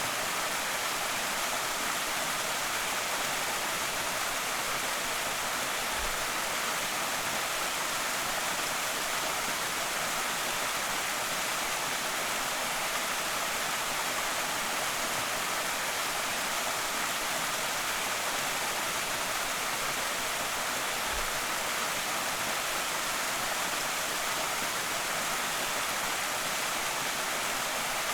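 Creek waterfall pouring steadily: an even, unbroken hiss of falling and splashing water.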